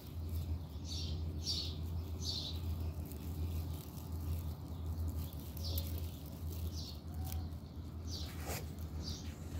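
A bird chirping repeatedly in short high chirps, one every half second to a second, over a steady low hum, with one sharp click near the end.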